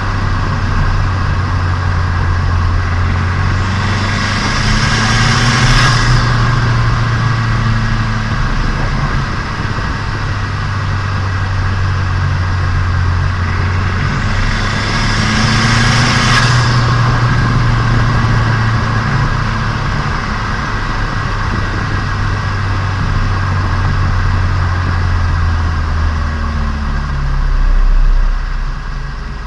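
Turbocharged Nissan Micra engine running in on the road, heard from onboard as a steady engine drone. Twice, about four and about fifteen seconds in, a hiss swells up over it and then cuts off sharply.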